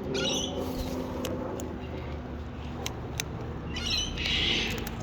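Wild parrots squawking: a short harsh squawk at the start and a longer, rasping one about four seconds in, with a few light clicks between.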